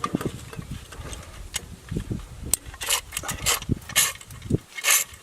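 Metal clinking and rattling as a hand come-along puller is handled and hooked onto a chain at a fence post: irregular clicks and knocks with a few short scrapes, the louder ones about two, three and five seconds in.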